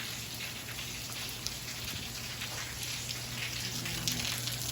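Steady rain falling, many drops pattering on surfaces, over a faint steady low hum.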